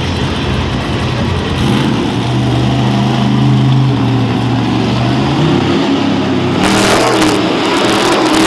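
Monster truck engine revving, its note held fairly steady for a few seconds, with a loud hissing roar joining about seven seconds in.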